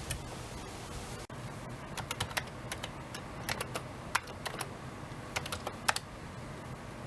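Irregular light clicks and taps, a few at a time, over a low steady hiss.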